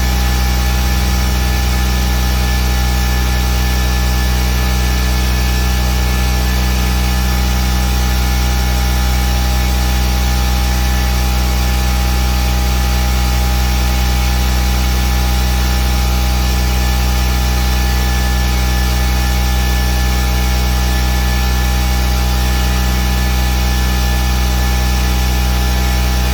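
A machine running steadily: an even, unchanging hum with a strong low drone and a hiss over it.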